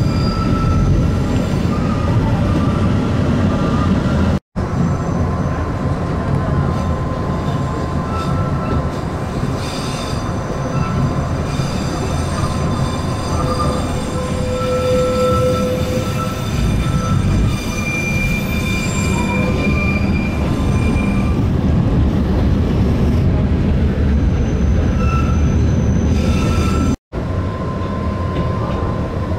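Stadler BDmh 2z+4A/12 diesel rack railcar heard from inside the cabin, running with a steady rumble, with thin high wheel squeals that come and go. The sound cuts out for an instant twice, about four seconds in and near the end.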